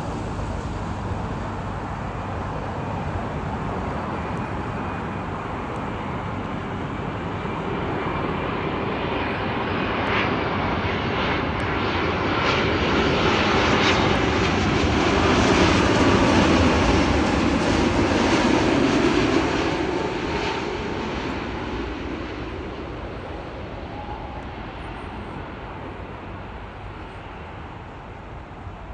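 Boeing 787 airliner's twin turbofan engines on short final, passing low overhead: the jet noise builds, is loudest about halfway through, then fades away, with a faint high whine from the engine fans.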